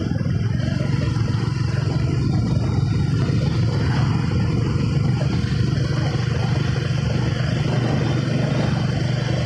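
Motorcycle on the move: a steady low rumble of engine, wind and road noise that does not change.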